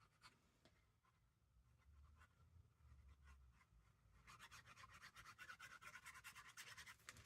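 Faint, quick scratchy strokes on paper, about ten a second, starting a little past the middle: glue being spread across a journal page. A few soft ticks come before it.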